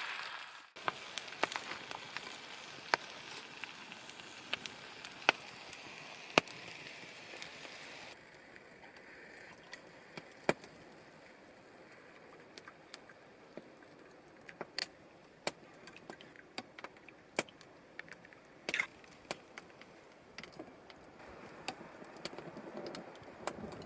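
Wood campfire crackling, with sharp irregular pops. A steady hiss runs under it for about the first eight seconds, then drops away, leaving the pops over a quieter background.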